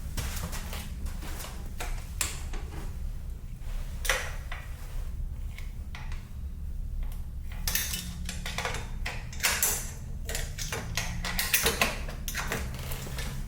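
Metal tools and motorcycle parts clinking and knocking in irregular handling sounds, busiest in the second half, over a steady low hum.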